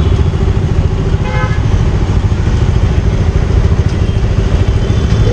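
Single-cylinder TVS Apache motorcycle engine running steadily at low speed in stop-and-go traffic, heard from the rider's seat, with surrounding street traffic.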